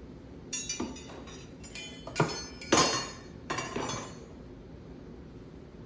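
Hard pieces of a bird feeder kit being handled and fitted together during assembly, giving a handful of sharp clinks and knocks over the first four seconds.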